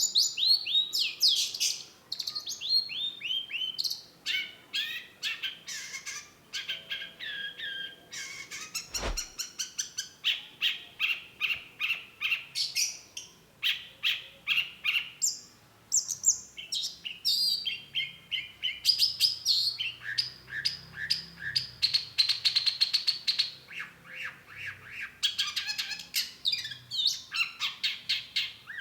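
Long-tailed shrike singing a rapid, varied song of quick sweeping chirps and trills in long runs with brief pauses. A single click sounds about nine seconds in.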